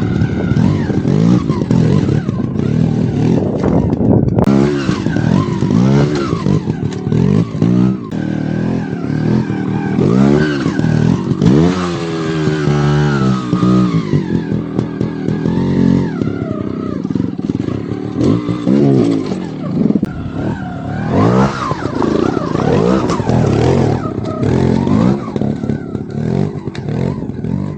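Beta trials motorcycle engine revved in repeated short bursts, its pitch rising and falling again and again as the bike is worked over obstacles at low speed.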